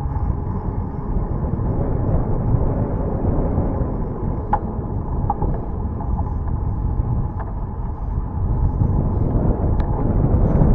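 Wind buffeting the camera microphone while cycling: a steady low rumble, with a few faint short ticks about halfway through and near the end.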